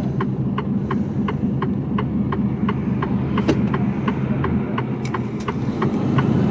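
Mercedes-Benz Actros truck's diesel engine running low and steady in the cab, with the turn-signal ticking evenly about three times a second. The engine picks up slightly near the end.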